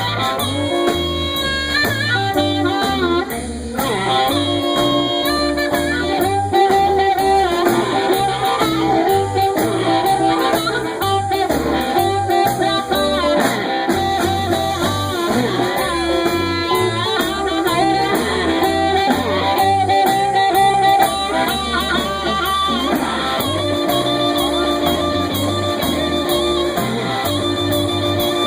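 Blues band playing an instrumental break between sung verses: a lead melody over guitar and a steady bass line.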